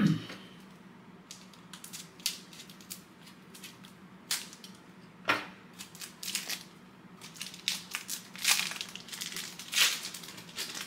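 Foil wrapper of a trading card pack crinkling and tearing as it is opened by hand, in irregular crackles and rustles that grow busier near the end.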